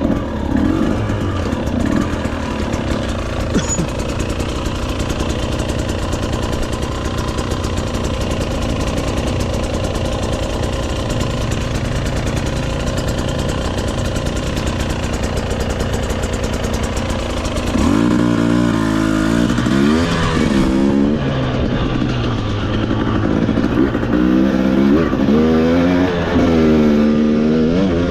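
Motorcycle engine running under steady throttle while being ridden on trails. After about 18 seconds it revs up and down several times, its pitch rising and falling with the throttle.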